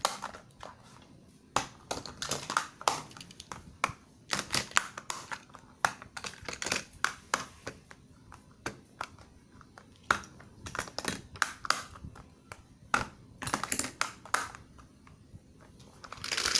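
Irregular light clicks and taps of small hard objects being handled, coming in clusters with short pauses.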